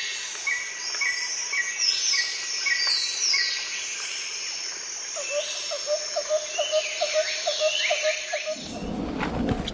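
Several birds calling over a high, steady insect hiss: a short chirp repeated about twice a second, and whistles that slide down in pitch. From about halfway a lower note repeats about twice a second, and near the end a low rushing noise comes in.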